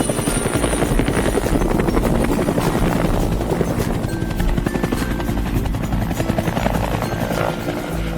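Helicopter rotor sound effect from an animated cartoon: a steady, fast chopping of the blades, with light background music.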